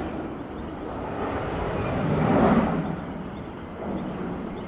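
Jet aircraft engine noise: a low rumble that swells about halfway through and then eases off.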